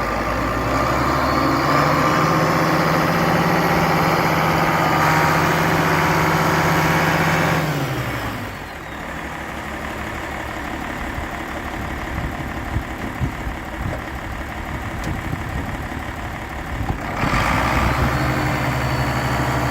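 International Harvester 1086's turbocharged six-cylinder diesel engine running at raised speed with a steady note. About eight seconds in, the engine speed drops to a lower, rougher running with irregular knocks. Near the end it comes back up to the higher steady speed.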